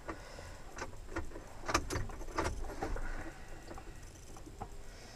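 A few soft, scattered clicks and knocks, handling noise inside the truck's cab, with the engine not yet running.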